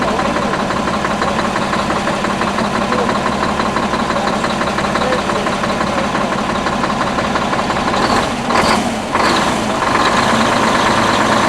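Detroit Diesel 6V92, a two-stroke V6 diesel, running steadily at idle in an old Ford 9000 truck, with a brief dip and waver in the sound about eight seconds in.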